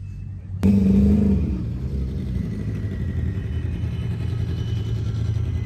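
Car engine and road noise. It jumps in abruptly about half a second in, louder for the first second, then runs steadily as the car drives.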